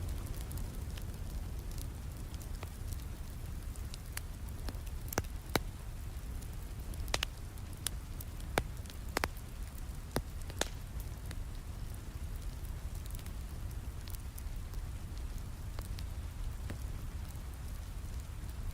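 Steady rain with a low rumble, over a crackling fireplace fire that gives scattered sharp pops, most of them in the middle stretch.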